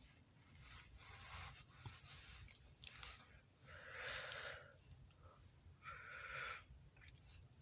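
Faint breathing close to the microphone: three or four soft, noisy breaths a second or two apart, over a faint low rumble.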